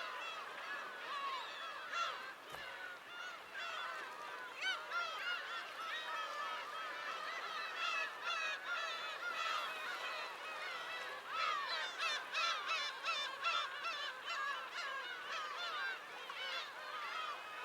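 A flock of birds calling, with many short high calls overlapping continuously and a burst of quick repeated calls about two-thirds of the way through.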